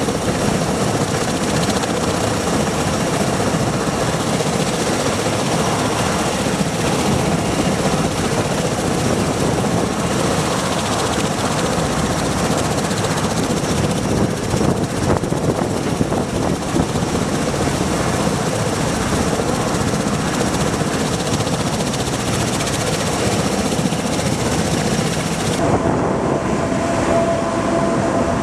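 MV-22B Osprey tiltrotor's engines and proprotors running with a steady, loud noise. Near the end the sound changes abruptly: the hiss thins out and a steady whine comes in.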